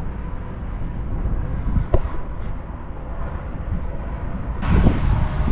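Steady low rumble of a tractor engine running to work the round baler's hydraulics, with a single sharp knock about two seconds in; the sound grows louder near the end.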